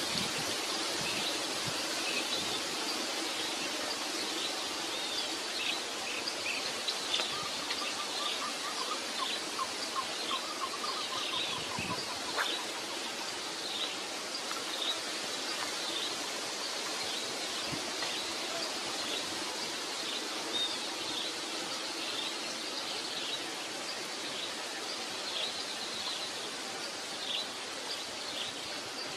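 Small birds chirping over a steady outdoor hiss. The short chirps repeat throughout, and a run of quicker, lower notes comes about eight to twelve seconds in.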